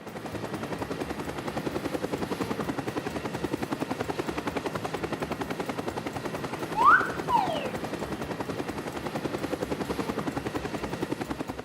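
A rapid, even, mechanical chopping sound effect, like a rotor or engine, runs throughout. About seven seconds in, a short whistle glides up and then back down.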